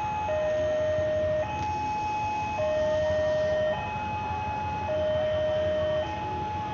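Railway level-crossing alarm: an electronic two-tone signal switching between a low and a high tone about every second, warning that a train is coming.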